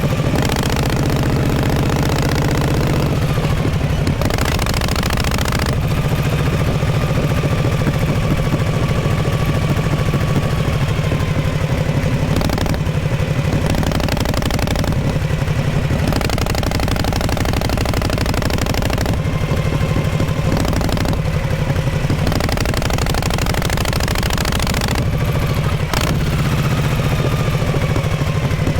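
Exhaust of a 1948 Harley-Davidson Panhead V-twin running steadily, its note shifting several times.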